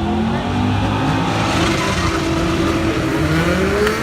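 Drag-racing car engines running hard at the strip. The engine note rises in pitch near the end as a car accelerates.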